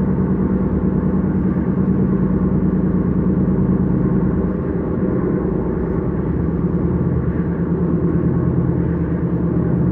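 S-Bahn train running, heard from inside the carriage: a steady low rumble with a constant hum that dips slightly about halfway through.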